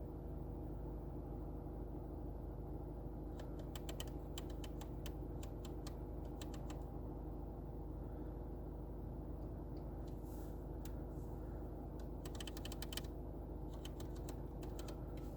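Quick bursts of key clicks, typing on a keyboard, in several short runs over a steady low hum.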